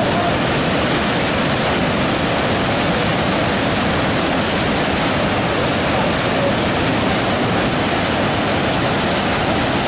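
Waterfall rushing: a loud, steady roar of falling and churning river water, unchanging throughout.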